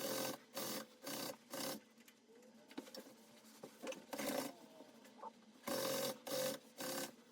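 Sewing machine stitching upholstery in short spurts of about a third of a second each, several in quick succession and then a pause, with quiet rustling of the material between runs.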